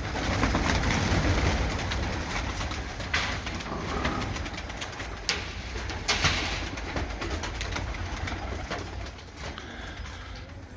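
Domestic pigeons cooing in a loft, with a few sharp clicks about three, five and six seconds in.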